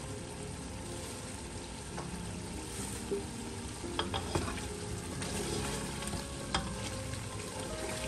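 Chicken pieces sizzling as they fry in an aluminium pressure-cooker pot, stirred with a wooden spatula that scrapes and knocks against the pot a few times from about three seconds in.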